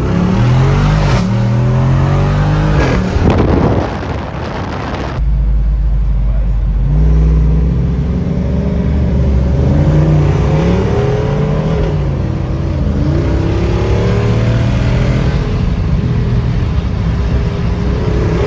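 Hard full-throttle acceleration from a standing start by a Jeep Wrangler 392's V8 and a pickup truck in a drag race. The engine pitch climbs and drops back again at each upshift, several times over.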